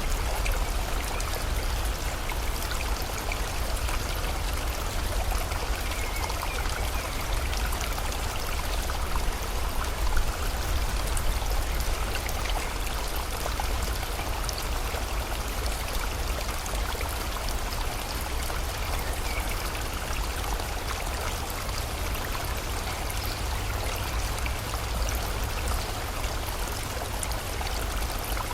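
Flowing river water, a steady, unbroken rush.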